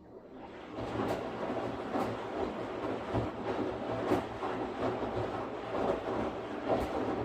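Washing machine starting up: a steady rumbling churn rises from near quiet about half a second in and holds, with a sharp knock recurring roughly once a second as the drum turns.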